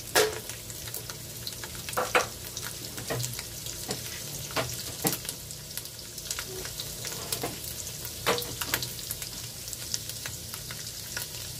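Almonds and raisins frying in a thin layer of hot oil in a pot: a steady sizzle with scattered crackles and pops. The loudest pop comes just after the start, as the raisins go in.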